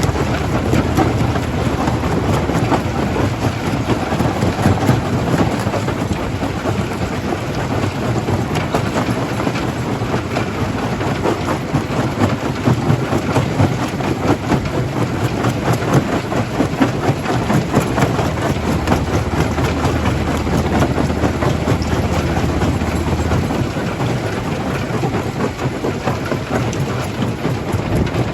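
Jaw crusher crushing stone: a continuous rumble thick with rapid cracking and clattering of rock. A low machine hum underneath drops out near the end.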